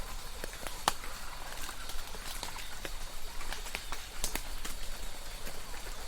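Light rain falling: scattered, irregular drips and taps over a soft steady hiss.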